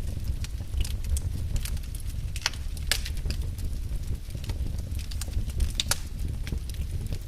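Wood fire burning in a fireplace: a steady low rumble of flames with frequent crackles and sharp pops from the burning logs, several louder pops scattered through.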